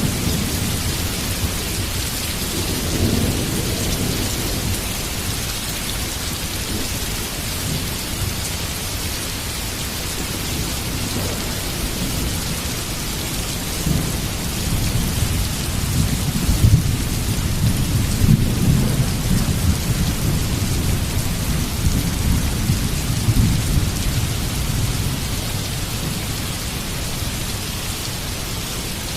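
Heavy rain falling steadily, with low rolling thunder rumbling a few seconds in and again through the middle of the stretch.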